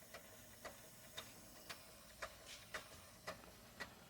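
Doll 360 model ship's steam engine running slowly on low steam pressure, giving a faint, even ticking about twice a second.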